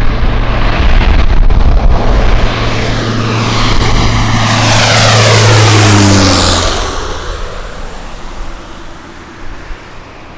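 Jet airliner passing close by, its engines' whine sliding down in pitch as it goes past about five to six seconds in, then fading away, with a heavy low rumble underneath.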